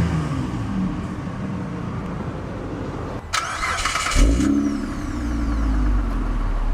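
The 2007 Mitsubishi Galant GTS's 3.8 L V6 engine running as the revs ease down into a steady idle. A little over three seconds in there is a brief harsh burst of noise, ending in a thump. The engine then settles into a deeper, steady idle.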